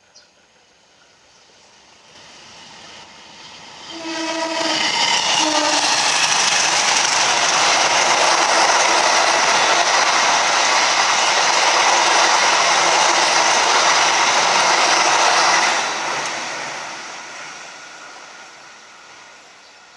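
Train passing at speed. Its horn sounds twice, a longer blast then a short one, as the rolling noise comes up loud, holds for about twelve seconds and then fades away as the train recedes.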